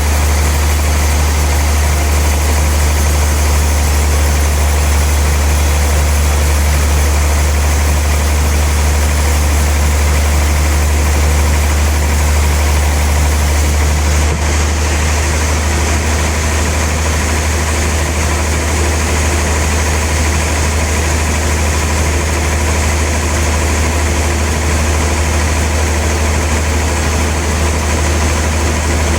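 Sawmill machinery running with a steady, loud low hum and a constant mechanical noise; about halfway through, the high hiss eases slightly.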